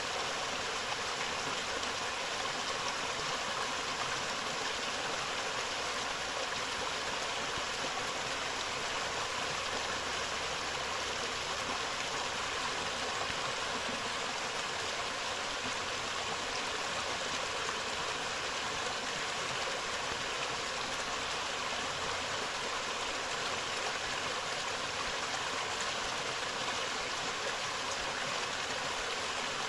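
A forest river flowing over rocks: a steady, unbroken rush of running water.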